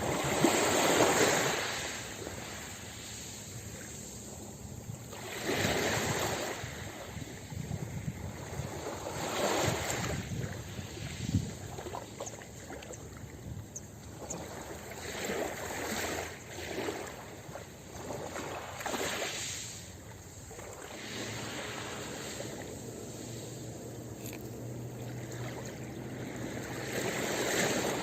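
Ocean waves breaking and washing up a beach: surges of surf every four or five seconds, each swelling and fading, the loudest about a second in.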